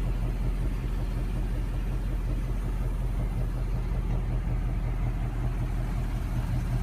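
Steady low mechanical hum that holds the same pitch and level throughout, with no revving or sudden sounds.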